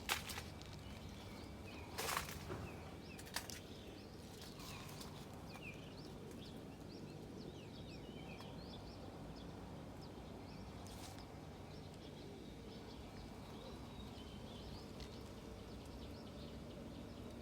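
Small birds chirping repeatedly over a steady outdoor background hum, with a few sharp clicks near the start and again about two and three seconds in.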